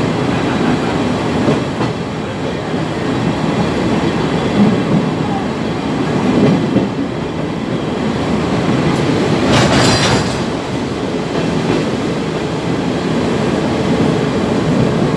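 Sagano Romantic Train carriage running on the rails: a steady rumble of wheels and track. About ten seconds in there is a brief sharp high-pitched noise.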